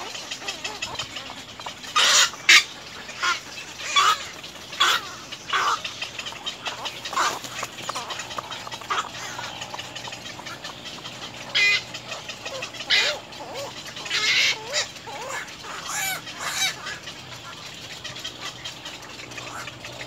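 Birds calling: about a dozen short, loud calls at irregular spacing, bunched in the first few seconds and again in the second half.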